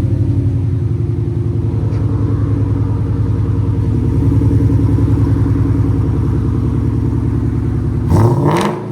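2006 Ford Mustang GT 4.6-litre V8, fitted with BBK long-tube headers, a BBK X-pipe with cats and Flowmaster FX mufflers, idling with a steady pulsing exhaust note, then revved once, briefly, near the end.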